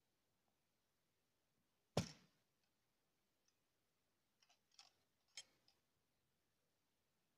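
Near silence broken by one sharp knock about two seconds in, followed by a few fainter clicks a little later.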